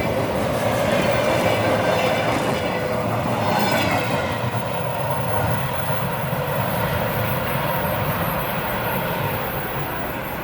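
Freight train wagons rolling past, a steady rumble of steel wheels on rail. A high-pitched wheel squeal rings over it for about the first four seconds and then dies away, and the train sound eases slightly toward the end.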